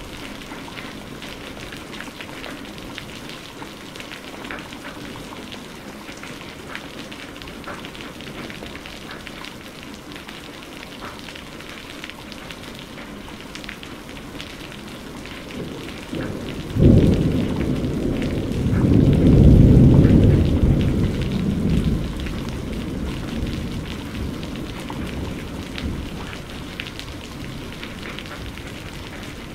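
Steady rain pattering on a surface, with a clap of thunder about halfway through: a sudden crack that rolls into a low rumble, swells for a few seconds and fades away.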